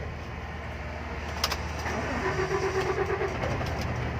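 Truck engine running steadily, with a single sharp click about a second and a half in.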